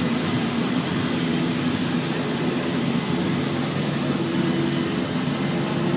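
Car engines running steadily: a continuous hum with several steady tones.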